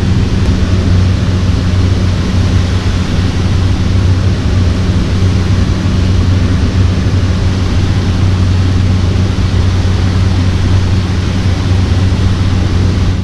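Cessna 208 Caravan's Pratt & Whitney PT6A turboprop engine and propeller running steadily in flight: a constant deep hum under an even rush of noise.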